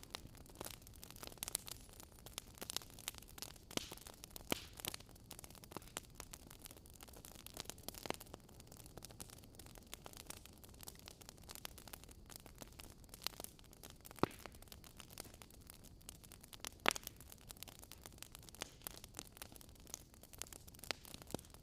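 Campfire crackling: irregular sharp pops and snaps over a faint steady hiss, with two louder pops late on.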